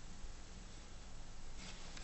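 Quiet room tone: a faint, steady background hiss with a low hum, and no distinct clicks or other events.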